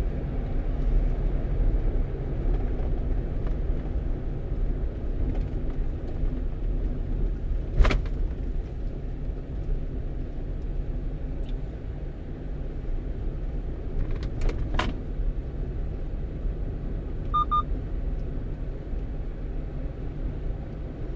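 Steady engine and road rumble heard from inside the cab of a 1-ton truck driving along a road. There is a sharp knock about eight seconds in, two more knocks around fourteen to fifteen seconds, and a brief double beep a little later.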